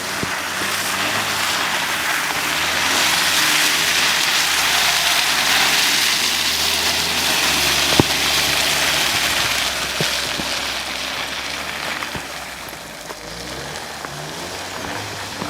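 Hyundai Tucson driving through mud and water: a loud rushing hiss of tyres and spray that swells in the middle and eases near the end, over the low hum of the engine. A sharp knock about halfway through.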